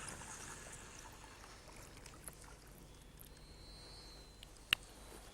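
Faint hiss of running river water, with one sharp click near the end.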